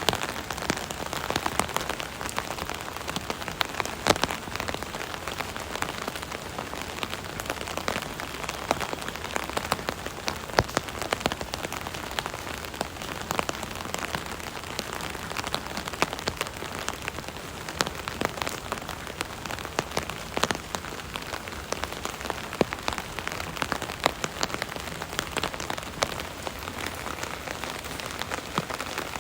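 Steady rain heard from under an umbrella, with a dense hiss and many separate drops tapping sharply on the umbrella canopy at irregular moments.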